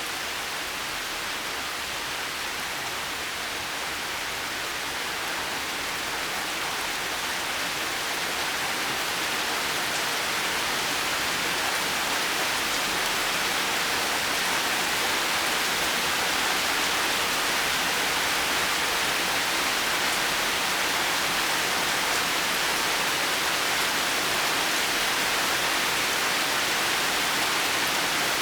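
Steady rain falling as an even hiss, with no single drops or thunder standing out; it grows a little louder over the first half and then holds steady.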